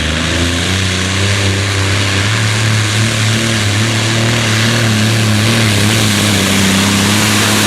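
Pulling tractor's engine running at full power, its pitch climbing over the first couple of seconds and then holding high and steady, with a loud hiss of noise around it.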